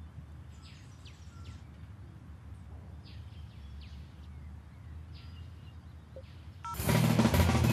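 Outdoor garden ambience: a steady low rumble with short bird chirps every second or so. About seven seconds in, loud band music cuts in abruptly.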